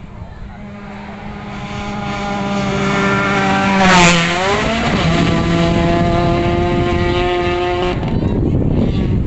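Rally car engine at high revs coming closer and growing louder, then passing with a drop in pitch about four seconds in. The engine holds a steady lower note before fading into a rushing noise near the end.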